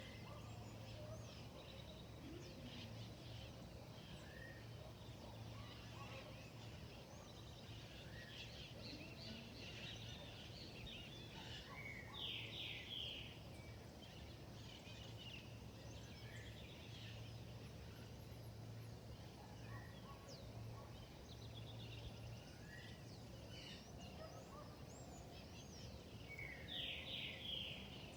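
Faint birdsong: many birds chirping and calling on and off, with a louder rapid series of notes about twelve seconds in and again near the end. A low steady hum sits underneath and stops about two-thirds of the way through.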